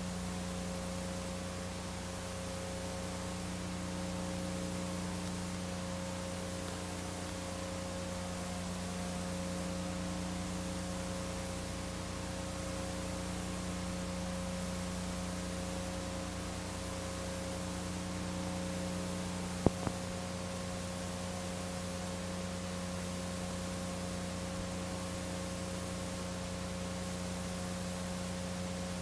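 Steady electrical hum of several fixed tones over a hiss, with one sharp click about two-thirds of the way through.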